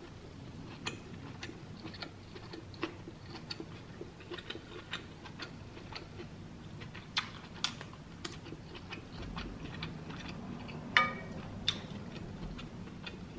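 Close-miked eating sounds: chewing with wet mouth clicks and lip smacks, coming irregularly several times a second. A sharper, louder click comes about eleven seconds in.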